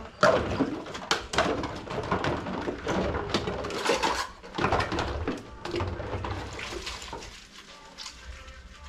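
Dishes, pots and cutlery clattering and knocking together as utensils are gathered for washing, with a dense run of clinks that thins out over the last two seconds.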